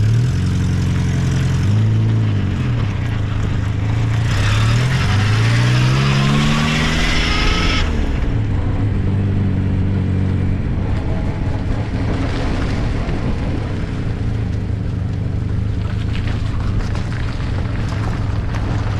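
The 1275cc four-cylinder engine of an MG Midget, heard from its open cockpit. Its revs drop about two seconds in, then climb again with a rush of air noise between about four and eight seconds, before settling to a steady low speed.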